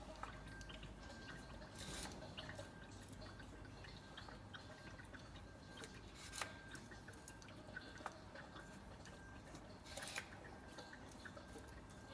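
Faint, irregular drips and small ticks, typical of engine oil dripping from the drain into a drain pan during an oil change, with a few louder clicks about 2, 6 and 10 seconds in.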